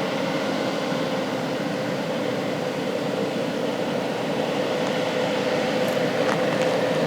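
Heavy truck's diesel engine running steadily, with a held whine over its drone.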